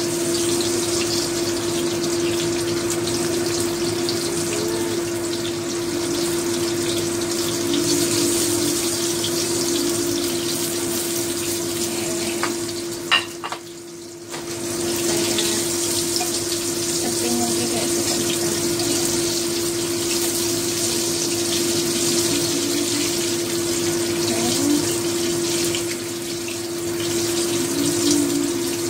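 Minced-fish patties sizzling as they shallow-fry in oil in a frying pan, a steady hiss with a low steady hum underneath. About halfway through the sound drops briefly, with a couple of sharp clicks.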